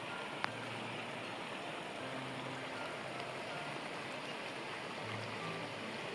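Steady rush of flowing water, with one sharp click about half a second in.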